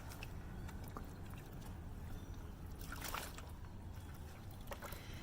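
Quiet steady low rumble with a few faint clicks, about one and three seconds in.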